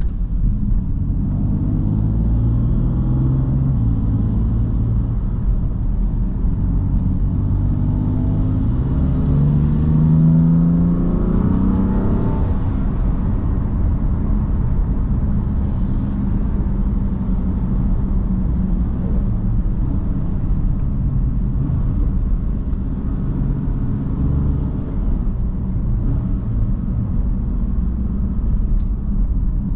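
BMW M3 F80's twin-turbo inline-six running under way, with road and tyre noise. The engine note climbs in pitch as it accelerates between about seven and twelve seconds in, drops back, and then holds steady at cruise.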